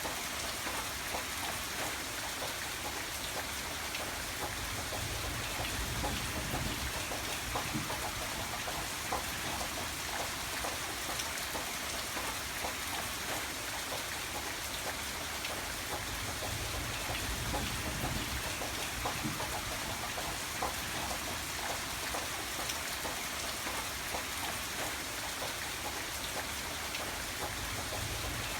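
Steady rain: an even hiss dotted with many individual drops striking a surface. A low rumble swells underneath a few seconds in and again past the middle.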